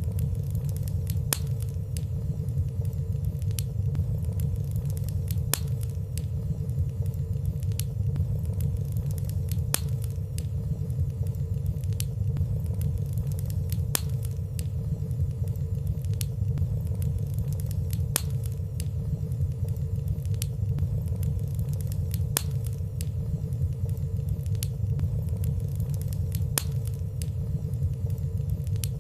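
Fireplace fire burning steadily with a low, even rumble and frequent small, soft crackles at irregular moments, without loud pops.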